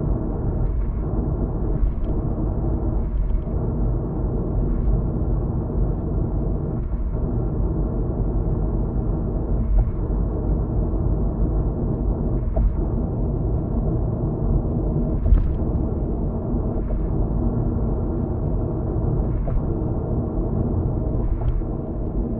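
Steady low road and engine rumble of a car heard inside the cabin at highway speed, with light thumps every one to three seconds as the tyres cross road joints.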